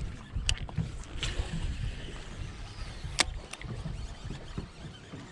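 Steady low rumble of wind and water around a small fishing boat, with a few sharp clicks scattered through it; the loudest click comes about three seconds in.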